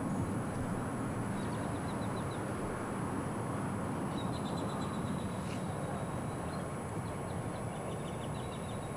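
Small songbird chirping in short rapid trills, three times, over a steady outdoor rushing noise.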